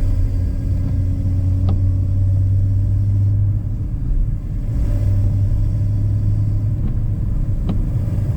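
BMW E46's straight-six engine with a K&N intake, cruising at a steady low drone. The level dips briefly a little past the middle. Two short clicks come, one about two seconds in and one near the end.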